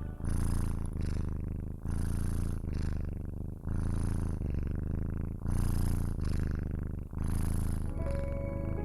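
Domestic cat purring close up, swelling and dipping in even breath cycles a little under two seconds apart, over soft background music.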